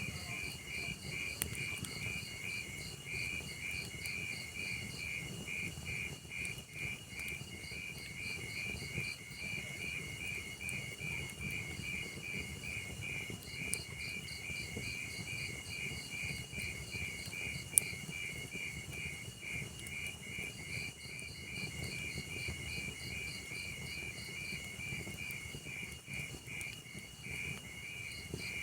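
Crickets chirping in a steady, fast pulsing rhythm over the low crackle of a wood fire, with a few sharp pops from the burning logs, the loudest about 18 seconds in.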